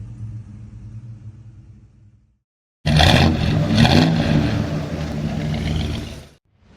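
Car engine revving in a loud burst of about three seconds that starts suddenly a little before the middle and cuts off near the end, after a low rumble has faded out.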